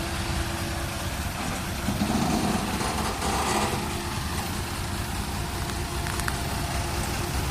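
Dump truck engine running steadily with a low rumble, briefly louder about two seconds in.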